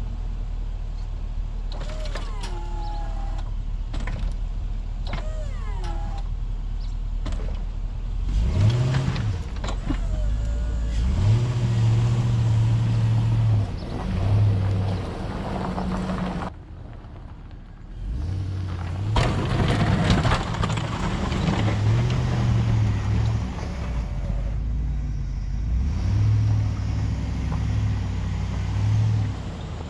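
Pickup truck engine running and repeatedly revving up and holding, as the four-wheel-drive truck strains to break free of packed snow and a plow frozen to the ground.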